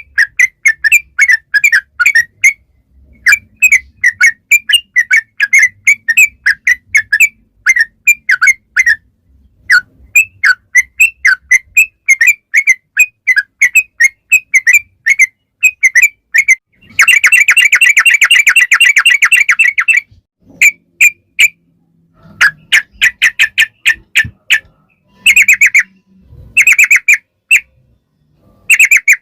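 Yellow-vented bulbul (trucukan) singing a long, loud run of quick chirping notes. About seventeen seconds in, the notes run together into a fast trill lasting about three seconds, the 'ropel' roll, and then the song breaks into shorter bursts.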